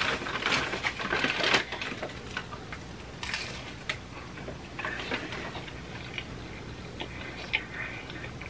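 Paper wrapper and bag rustling loudly for the first second and a half, then close-miked chewing of a crunchy hard-shell taco, with crisp crackles and clicks as the shell breaks.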